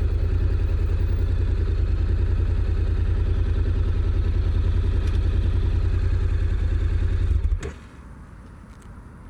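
Honda NC750X's parallel-twin engine idling with an even, steady pulse. About seven and a half seconds in it is switched off with a click, and the engine note stops abruptly, leaving only faint background.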